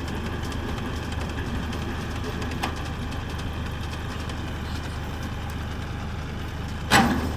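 Bobcat compact tractor's engine running steadily at an even pitch while mowing. A short, sharp, loud sound cuts in near the end.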